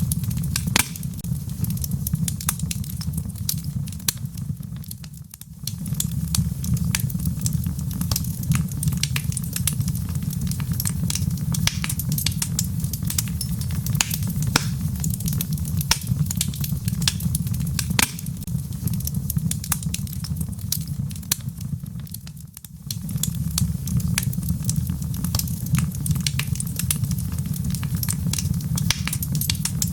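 Wood fire crackling: a steady low rumble scattered with many sharp pops and snaps, over a soft patter of rain. The sound briefly drops away and swells back twice.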